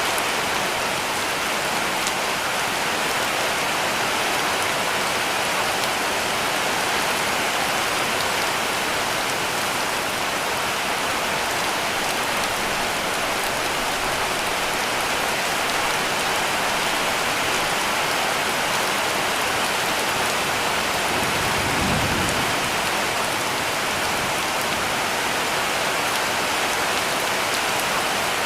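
Heavy rain falling steadily on a cabin roof, a dense even patter. About three-quarters of the way in a brief low rumble swells and fades under the rain.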